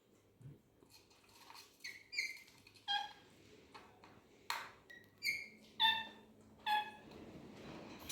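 Birds giving a series of short, sharp calls, roughly one a second, starting about two seconds in.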